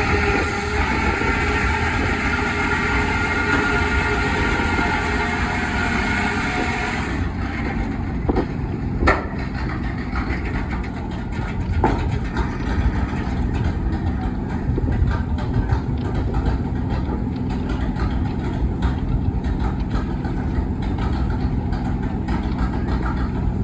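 Engines running steadily, the sound of old engines at work; about seven seconds in the sound changes abruptly to a noisier running sound with a few sharp knocks.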